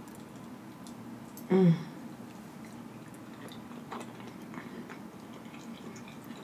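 A person chewing a mouthful of soft, cheesy meatball with the mouth closed: faint wet mouth clicks now and then. About a second and a half in comes one short voiced hum, the loudest sound here.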